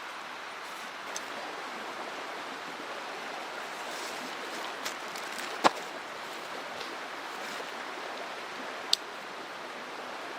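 Mountain stream rushing steadily, with a few short sharp clicks or snaps over it, the loudest one a little past halfway.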